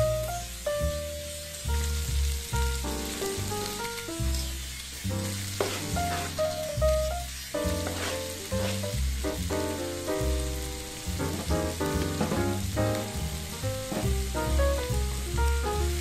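Sliced onions and vegetables sizzling as they fry in a pan, a steady high hiss, under background music with a melody over a bass line.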